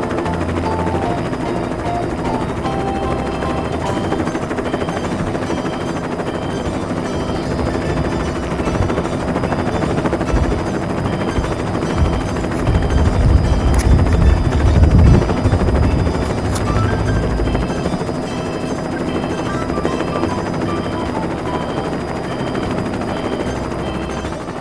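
Toy rescue helicopter's electronic rotor sound effect, a steady rapid chopping with a faint tinkly tune over it, swelling louder in the middle.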